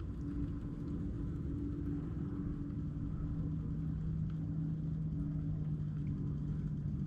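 Steady low hum of a motor, two even tones over a low rumble, its lower note shifting slightly about three seconds in.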